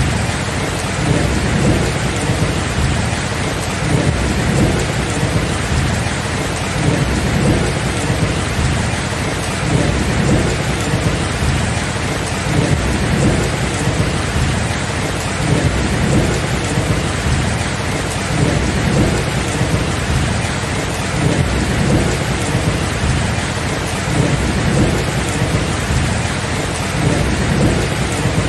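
Steady heavy rain with low, rolling thunder rumbling through it, swelling and easing gently with no sharp cracks.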